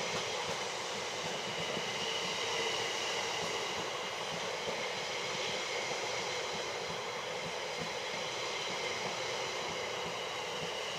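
Electric passenger train moving at the platform, with a steady rumble and several steady high whining tones from its electric equipment.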